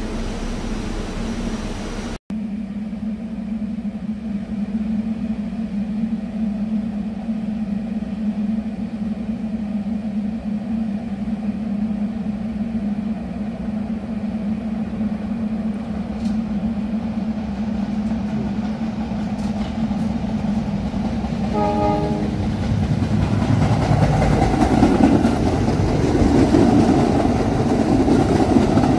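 Staten Island Railway R44 train approaching a station over a steady low hum, giving one short horn blast, then pulling in past the platform with a loud, swelling rumble.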